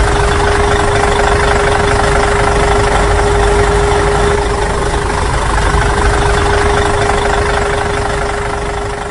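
Engine running steadily at an even pitch with a constant hum, fading out near the end.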